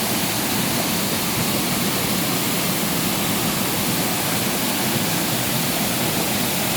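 Waterfall rushing steadily: a full, strong flow of water pouring over a stream's cascade, an even roar with no change.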